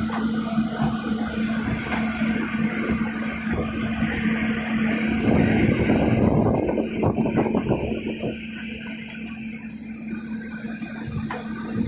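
Excavator's diesel engine running with a steady hum, working harder and louder for a couple of seconds near the middle.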